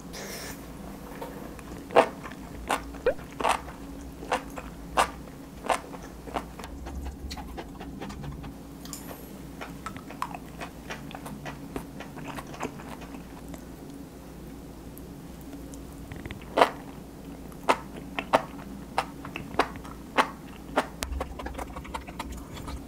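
Close-up eating sounds: sharp crunches and clicks of chewing and biting into a mala xiang guo stir-fry with chewy enoki mushrooms and beef brisket. They come in two runs with a quieter stretch between.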